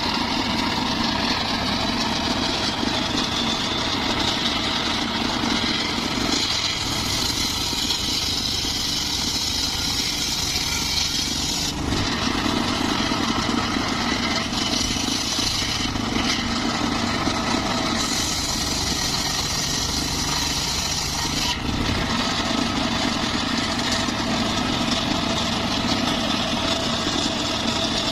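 Engine of a homemade circular saw running steadily, with a brighter high hiss that comes and goes every few seconds.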